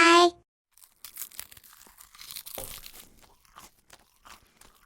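A short, loud pitched tone at the very start, then soft tearing and scattered crunching bites: a baked cinnamon roll being pulled apart and eaten.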